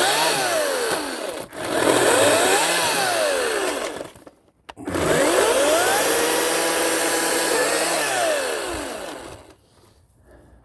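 Ryobi 40-volt cordless electric chainsaw revved in three trigger pulls: each time the motor whine climbs quickly, then winds down as the trigger is let go, the last one held steady for about three seconds before running down near the end.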